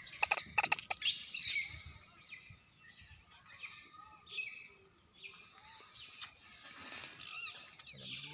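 Small birds chirping repeatedly in the background, with a few sharp clicks in the first second.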